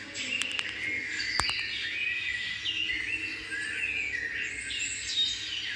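Small birds chirping, many short rising and falling chirps overlapping one another, with a few sharp clicks in the first second and a half.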